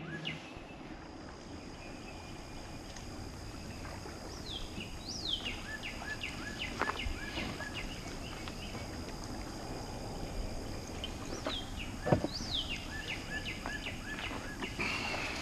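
A songbird singing twice: each phrase is a few falling whistles followed by quicker, lower repeated notes. A steady outdoor hiss runs underneath, with a single thump about twelve seconds in.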